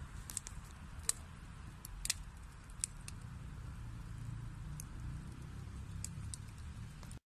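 Wood burning in a fireplace: irregular sharp pops and snaps of the burning logs over a low, steady rumble of the flames. The sound cuts out for an instant near the end.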